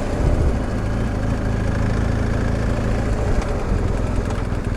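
BMW R1250 GS Adventure's boxer-twin engine running steadily at low, even revs.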